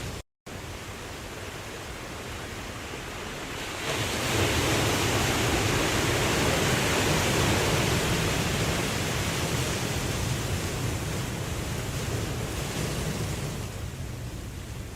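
Ocean surf: a steady rushing wash of waves that swells up about four seconds in and slowly eases off toward the end. A split-second gap of silence cuts in just after the start.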